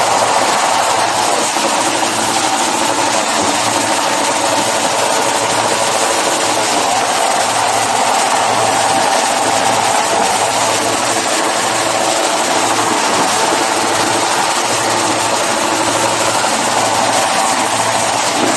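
Carburetted motorcycle engine running loudly at steady high revs, held without letting off.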